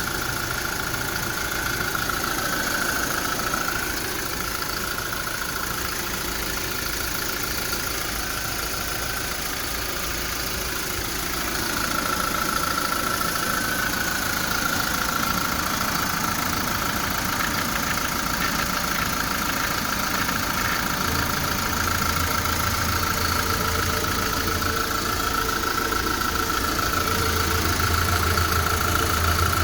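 Kia Bongo III's 3.0-litre diesel engine idling steadily, its low hum growing a little stronger about two-thirds of the way through.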